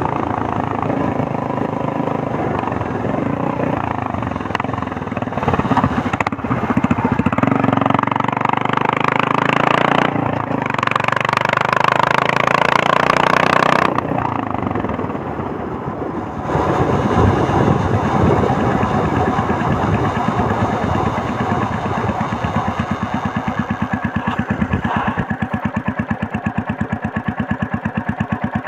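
Royal Enfield Meteor 350's single-cylinder engine and exhaust on the move, its thumping beat rising and falling with the throttle. It eases off about halfway through, picks up again, and in the last third settles into an even, steady run of thuds.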